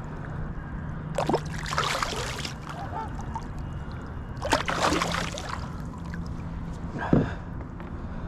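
Water splashing around a kayak, two splashing spells about three seconds apart, with a short sharp sound near the end.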